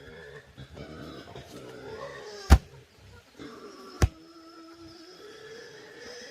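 Pitched animal calls with two sharp knocks, one about two and a half seconds in and one about four seconds in; the knocks are the loudest sounds.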